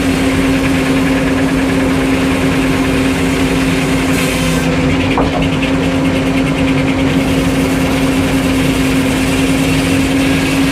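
Portable sawmill's engine running at a steady speed with a constant hum.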